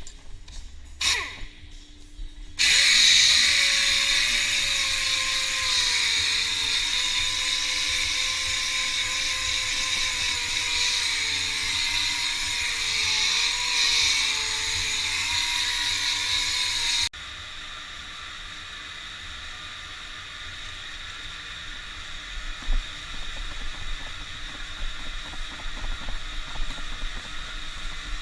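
High-speed rotary power tool working on an alloy wheel, a steady whine that sags and wavers slightly with the load over a loud hiss. It cuts off abruptly about two-thirds of the way through, leaving a quieter steady hiss.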